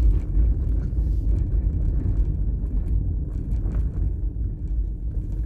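Low, steady rumble of a car's engine and road noise heard from inside the cabin, easing slightly toward the end.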